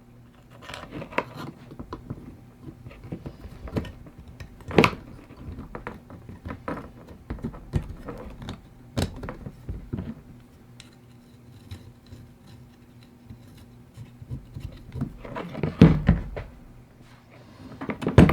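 Irregular clinks and knocks of metal objects being handled, loudest about a third of the way in and twice near the end, over a steady low hum.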